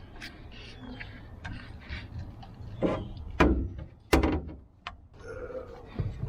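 Three heavy knocks a little over a second apart, about three seconds in, with faint clicks and clinks between, from hand tools being worked on the excavator's seized engine.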